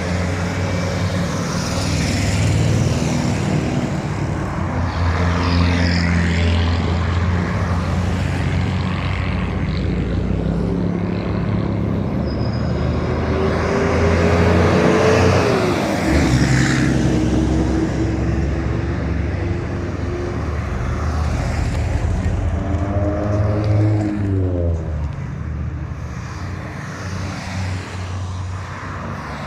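Heavy trucks in a convoy driving past one after another, their diesel engines running steadily. About midway a tone climbs and then drops as one truck goes by, and a falling set of tones follows a few seconds before the end.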